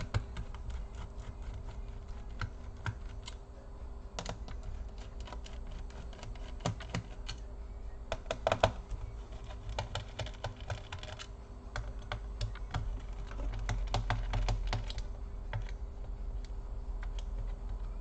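Screwdriver and hands working on the underside of a laptop as the back-cover screws are undone: many irregular light clicks and taps of the tool and parts on the plastic case.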